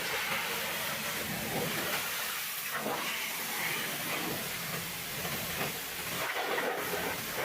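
Pressure washer spraying water in a steady hiss, with small flickers in the spray noise.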